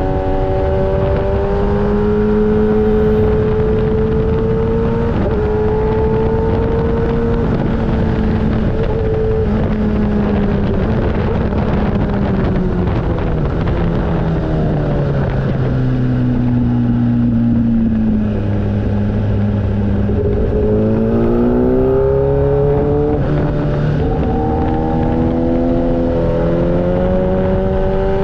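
Motorcycle engine running while being ridden, its pitch rising and falling with throttle and gear changes: it winds down through the middle, then accelerates again about three quarters of the way in, over a steady rushing noise.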